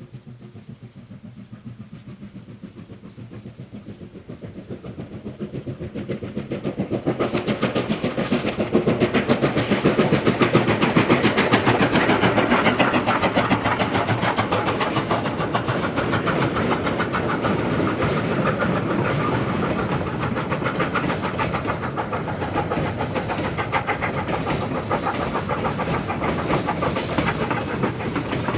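A QJ steam locomotive approaching, growing louder over the first ten seconds or so, then running by close with a fast, rhythmic clatter on the rails.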